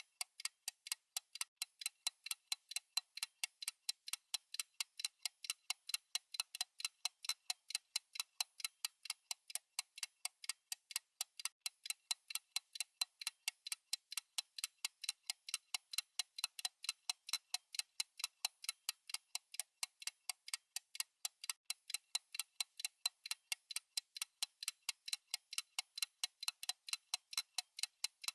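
Fast, even clock tick-tock of a countdown timer's ticking sound effect: sharp, regular clicks with no break.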